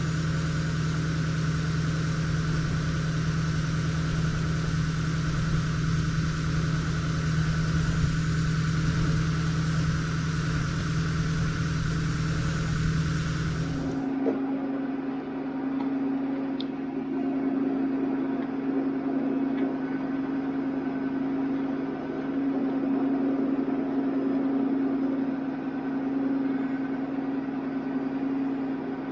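Ford F450 recovery truck running steadily at idle while its winch pulls a crashed car, an even mechanical hum. About halfway through the hum changes abruptly to a different, slightly higher steady drone.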